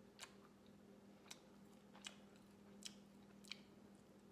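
A person chewing a Takis mozzarella snack bite with the mouth smacking: five faint short wet smacks, roughly one every three-quarters of a second.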